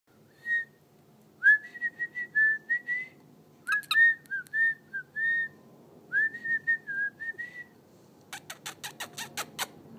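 Cockatiel whistling a tune in short, clear notes in four phrases. Near the end comes a fast run of sharp clicks, about seven a second.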